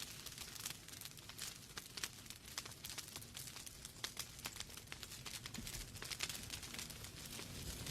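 Wood fire burning in a fireplace: logs crackling with many quick irregular pops and snaps over a soft steady hiss.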